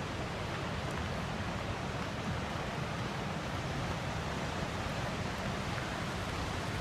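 Steady rushing of falling water from Wahclella Falls, an even roar with no breaks.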